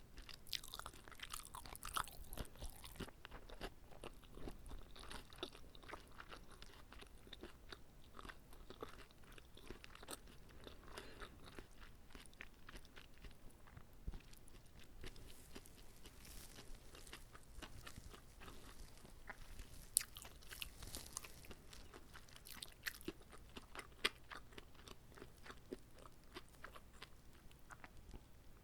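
Close-miked chewing and biting of a whole uncut kimbap (Korean seaweed rice roll): a steady stream of small crunches and moist mouth sounds, with a few louder crunches scattered through.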